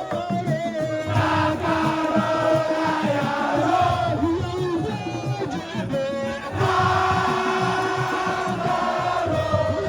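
Music: a group of voices chanting together over a busy, dense beat, with held sung lines that shift in pitch.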